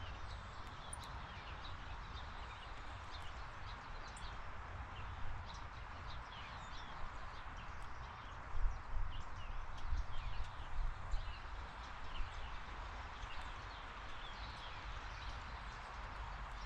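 Small birds chirping in many short, quick notes over a steady outdoor hiss. A low rumble runs underneath, with a few louder soft thumps about halfway through.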